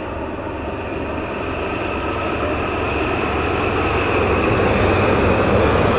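A train running on the rails, its rumbling wheel noise growing steadily louder as it approaches, with a steady high ringing tone over it.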